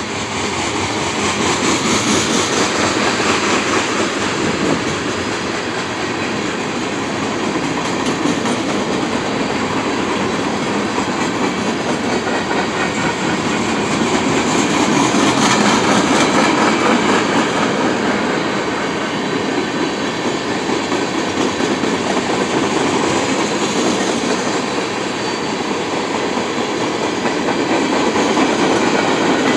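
Freight train cars (tank cars, boxcars and covered hoppers) rolling steadily past, their steel wheels clattering over the rails.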